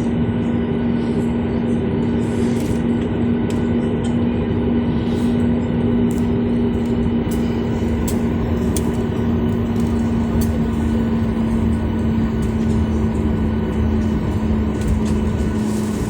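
Steady drone of a running vehicle heard from inside, with a strong constant low hum that drops slightly in pitch near the end.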